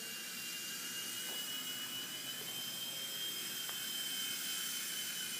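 Blade MCX2 micro coaxial RC helicopter in flight: a steady high electric-motor whine with rotor hiss, its pitch drifting slightly up and back down midway.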